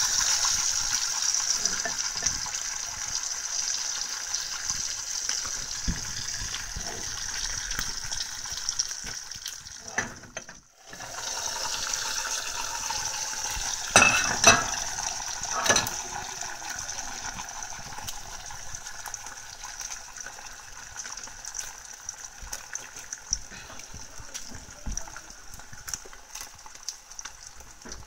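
Fried eggs and chicken salami slices sizzling in a frying pan, a steady hiss full of small crackles. The sizzle cuts out briefly about ten seconds in, and a few louder pops come a little past the middle.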